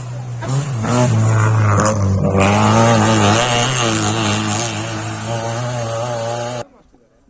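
Rally car engine revving hard, its pitch rising and falling; it cuts off suddenly near the end.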